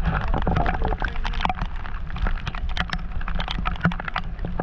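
Heavy rain falling on a boat, with drops striking hard surfaces close to the microphone as a dense, irregular patter of sharp taps over a steady hiss.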